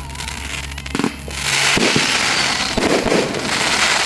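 Fireworks going off: a few sharp bangs, then from about one and a half seconds in a dense, continuous crackle.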